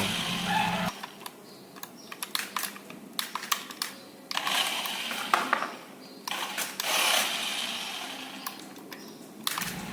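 Toy remote-control car's small electric motor and gears whirring in short runs as it drives, with scattered clicks and tyre scuffs.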